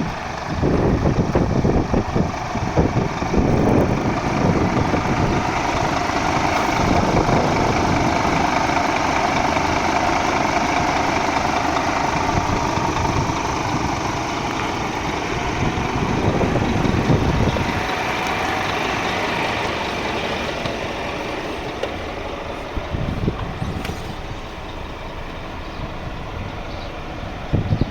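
Scania P 230 truck's diesel engine running steadily with a low rumble that eases off about eighteen seconds in.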